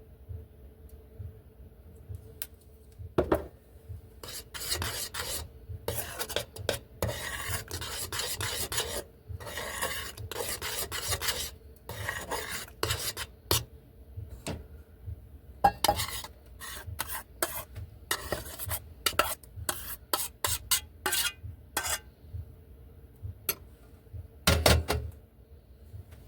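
Rasping, scraping strokes repeated for about ten seconds, then a run of sharp clicks and clinks like crockery and cutlery being handled, and a heavier knock near the end.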